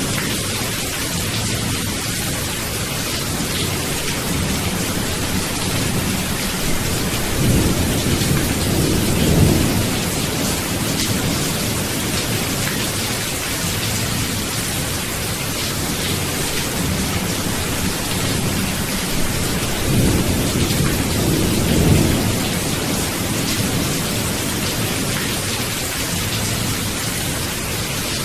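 Steady rain falling, with two low rolls of thunder building and fading, one about a third of the way in and another about two-thirds in.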